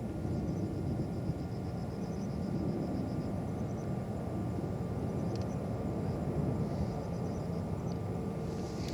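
Distant jet airliner engines, a steady low rumble.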